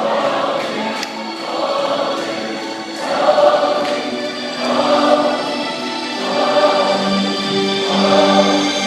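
Choral music: a choir singing long held phrases in waves of about a second and a half, over low sustained notes.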